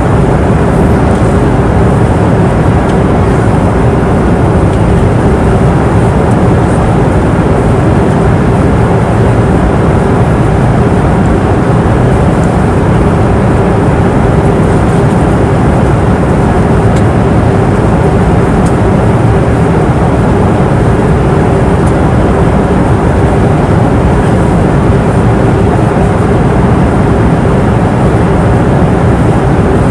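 Airliner cabin noise in flight: a steady, unchanging rushing drone of engines and airflow, heaviest in the low range, with a steady hum running through it.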